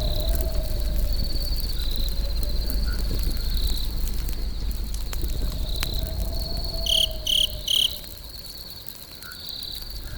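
Campfire crackling with scattered sharp pops over a low rumble, with crickets trilling steadily. About seven seconds in come three short, loud chirps, and the low rumble then drops away near the end.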